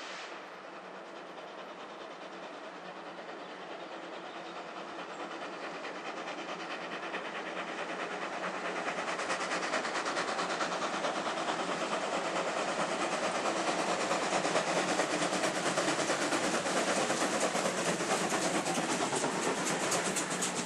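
Steam-hauled train approaching and growing steadily louder, with a fast rhythmic clatter building in the second half.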